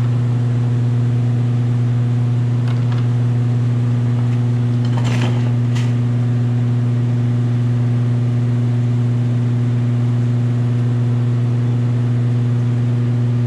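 Steady electric machine hum, a motor running without change, with a few brief light knocks about three, five and six seconds in.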